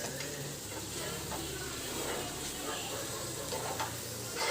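Chicken frying in a pan with a steady sizzle, and a few light scrapes and taps of a spoon stirring it.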